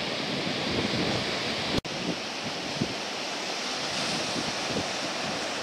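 Ocean surf washing with strong wind buffeting the microphone, a steady rushing noise. About two seconds in, the sound drops out for an instant.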